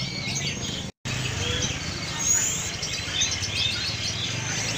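Many small caged birds chirping and twittering together in a dense, overlapping chorus of short high calls, over a low background rumble. The sound cuts out for a moment about a second in.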